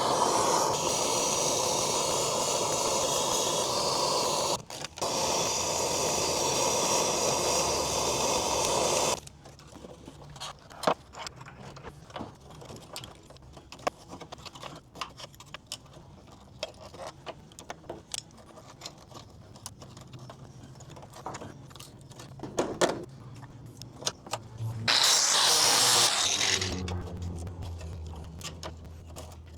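A loud, steady rushing noise for about nine seconds, cut off briefly midway, then light metal clinks and scrapes of hand tools on sheet metal, and another short rushing burst near the end.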